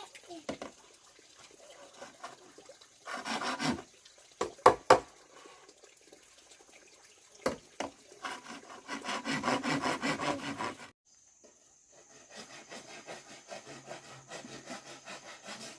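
Hand work on wood: a few sharp knocks and a run of rasping, sawing-like strokes.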